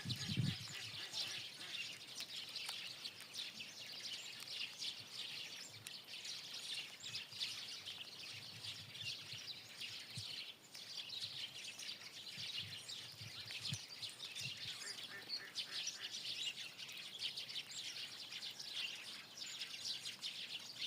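Many small birds chirping and twittering at once, a continuous dense chatter of short high chirps.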